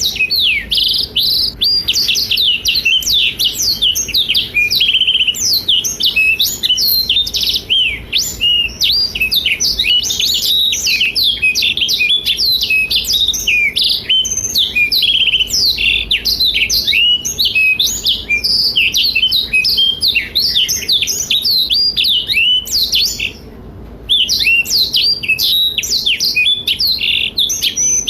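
Blackthroat (black-throated canary) in full, continuous song: a fast, unbroken run of high twittering trills and chirps. It pauses for under a second about 23 seconds in.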